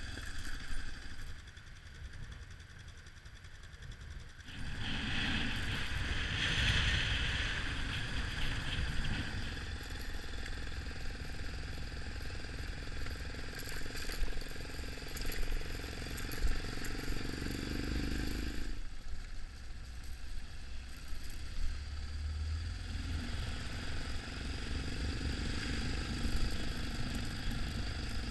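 Yamaha XT 600 single-cylinder motorcycle engine running while riding, with wind rushing over the microphone. The sound changes abruptly twice, about four seconds in and again past the middle.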